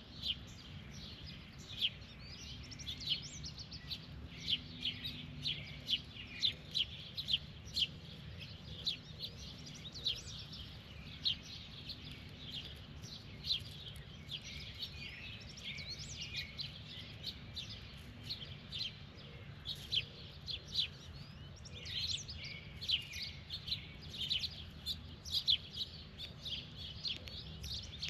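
Birds chirping continually, many short, sharp chirps coming several a second and overlapping, over a low steady hum.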